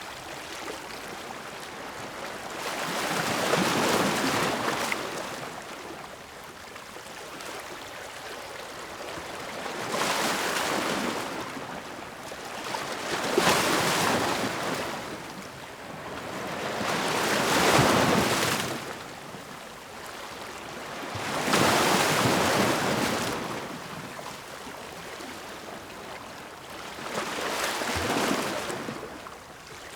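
Ocean waves breaking on the shore, six swells of surf rising and falling several seconds apart over a constant wash of water.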